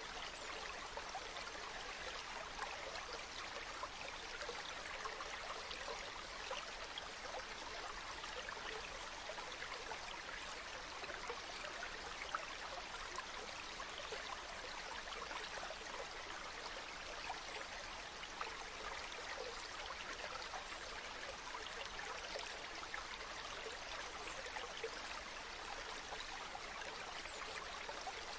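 Running water, like a small stream: a steady, even rush with fine splashing and trickling throughout.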